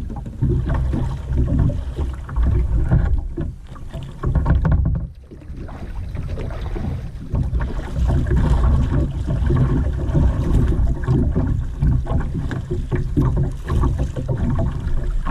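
Kayak out on a river: water sloshing and splashing around the boat and paddles over a heavy low rumble, with a brief lull about five seconds in.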